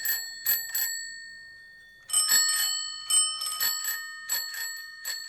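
Bicycle bells ringing, several bells of different pitches: three rings, a pause of about a second, then a quick run of rings about four a second.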